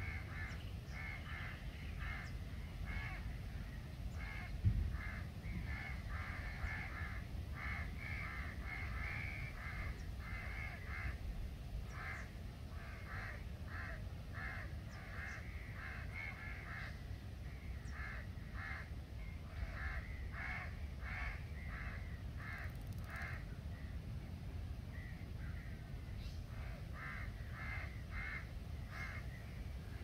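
A bird calling over and over in short notes, about two or three a second, in runs with brief pauses, over a steady low rumble. A single thump comes about five seconds in.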